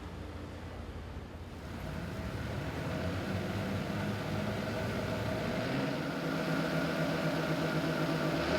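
Stock Ford F-150 3.5L twin-turbo EcoBoost V6 running on a chassis dyno. A low rumble for the first couple of seconds, then the engine note grows louder and climbs slowly as load and revs build.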